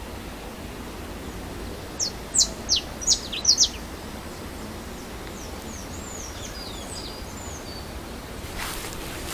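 Birds calling: a quick run of loud, sharp notes that sweep downward, then softer, twittering calls, over a steady low background of open-air noise.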